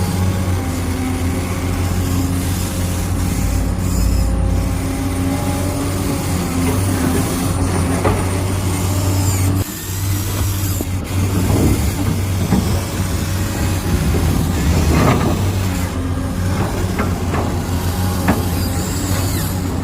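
Huina 1593 radio-controlled construction vehicle running: a steady mechanical hum of its motors and gears, which drops briefly about halfway through before carrying on.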